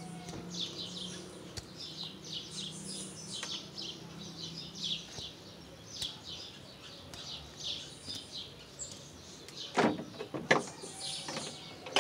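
Small birds chirping repeatedly in quick runs of short notes, with a low steady hum during the first half. A few sharp clicks and knocks about ten seconds in.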